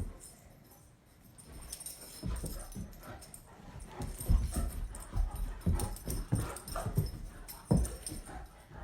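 A Saint Bernard at rough play with a person: its play noises and scuffling come with irregular bumps and thuds, starting about two seconds in. The loudest bumps fall about halfway through and near the end.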